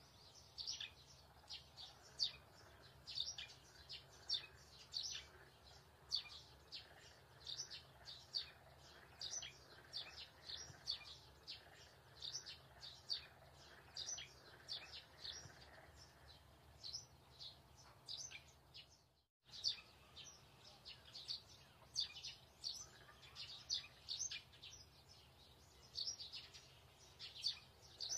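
Birds chirping: short high chirps, two or three a second, over a faint low hum, with a brief dropout about nineteen seconds in.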